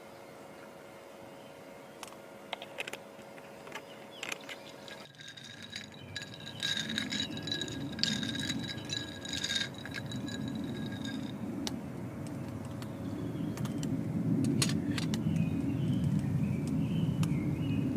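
Light clicks and rattles of handled gear, then a steady low rushing that starts about six seconds in and grows louder; faint bird chirps near the start and again near the end.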